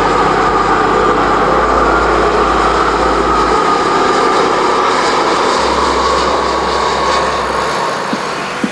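Jet airliner's engines running with a steady roar and a faint high whine as the plane passes on its landing approach.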